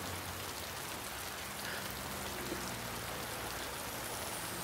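Steady rain falling, an even hiss of rain on the ground.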